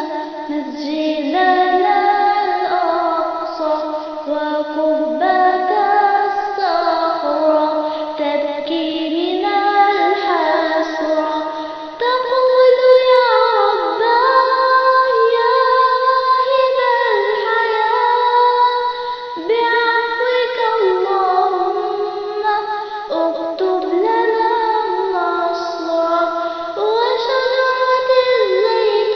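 A girl's voice singing an Arabic nasheed, a continuous flowing melody.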